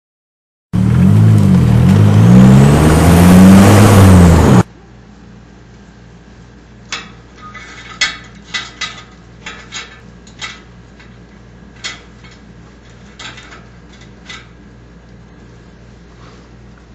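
A car engine revs up and down with a high whistle rising and falling alongside it, like a turbo whistle. It is loud and cuts off abruptly about four and a half seconds in. Then comes a low steady hum with scattered sharp clicks.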